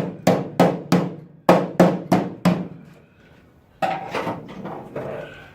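A hammer striking the car's steel bodywork in rapid, even blows, about three a second, roughly nine strikes that stop about three seconds in. A fainter, duller metallic sound follows near the end.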